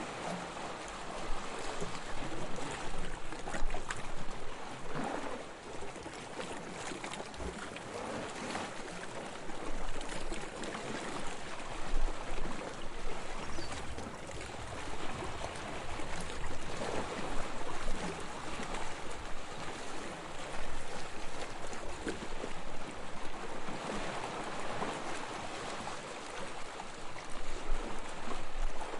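Sea water washing and lapping in small waves, a steady rush that swells and eases every few seconds.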